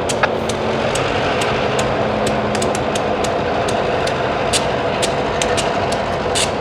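Diesel locomotive engine running at a steady idle, with irregular sharp clicks over the hum.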